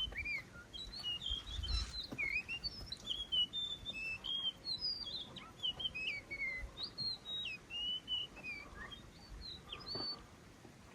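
Songbirds chirping and singing: a busy run of short, varied whistled notes, many sliding up or down in pitch, thinning out near the end.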